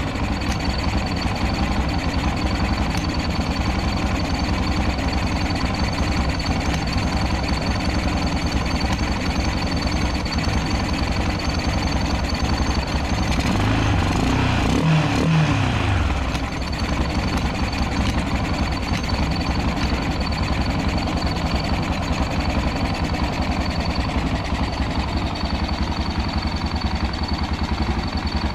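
Rebuilt Honda NX250 (AX-1) 250cc single-cylinder motorcycle engine running at a steady idle, with a brief change in engine speed about halfway through.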